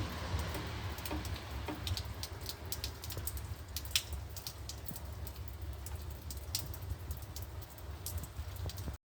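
Rain falling, with many irregular sharp drop taps close by over a steady hiss and a low rumble underneath. The sound cuts off abruptly near the end.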